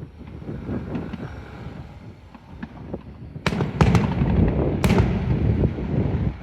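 Fireworks going off: a low rumble, then a cluster of sharp bangs about three and a half seconds in and another about five seconds in, over a dense, loud crackling rumble that fades just before the end.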